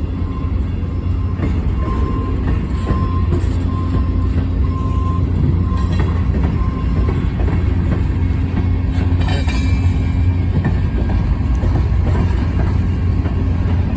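Freight train cars rolling past at close range: a steady low rumble with scattered faint clicks of wheels over rail joints. A faint thin squeal comes and goes during the first half.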